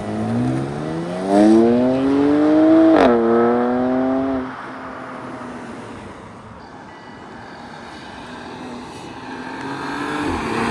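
Car engine accelerating hard, pitch climbing steadily for about three seconds. A sharp crack comes as the pitch drops at a gear change, then the engine fades away. Near the end another car engine revs up.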